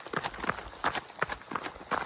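Footsteps of a fell runner on the mountain summit, a crunching step about three times a second.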